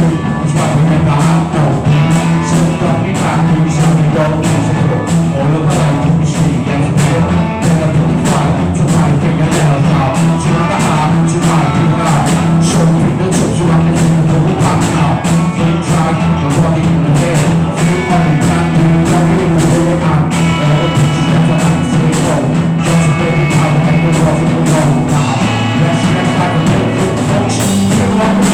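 Rock band improvising: drum kit playing a steady beat over a sustained low bass drone, with pitched instrument lines coming in higher up in the second half.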